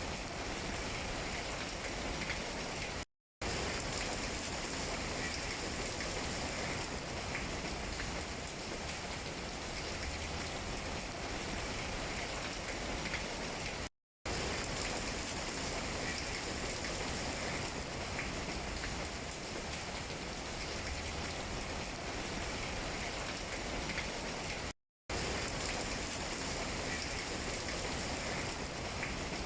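Steady rain falling on tree leaves, an even hiss of drops. The sound cuts out completely for a fraction of a second three times, about every eleven seconds.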